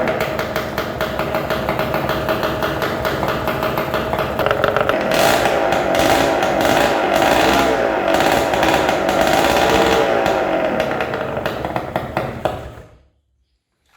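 Honda CRM250's single-cylinder two-stroke engine running at a fast, rattly beat, then cut off abruptly about a second before the end.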